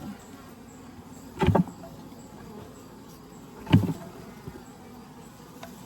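Two dull thumps about two seconds apart as a Layens hive frame is jerked down to shake the honeybees off it, over a faint hum of bees.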